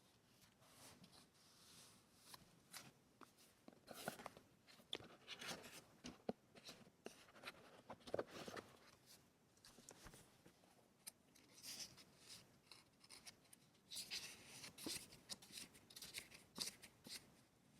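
Faint paper-craft handling sounds: paper rustling and sliding, with light taps and small clicks at an uneven pace.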